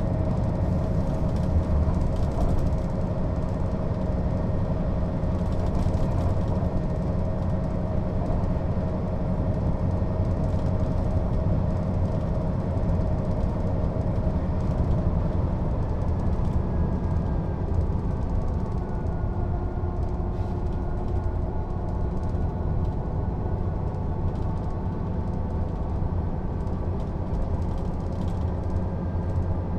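Mercedes-Benz O 407 city bus under way: its diesel engine and drivetrain run steadily with a low rumble and a whine. About halfway through, the whine changes pitch as the bus changes speed.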